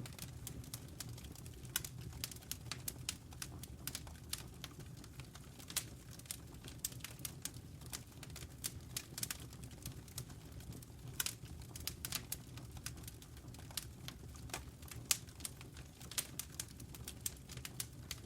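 Wood fire in a fireplace crackling: many irregular sharp snaps and pops over a low, steady rumble of the burning flames.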